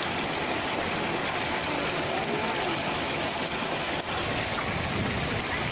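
Spring water gushing out of the ground and pouring steadily, a strong, even rush of water.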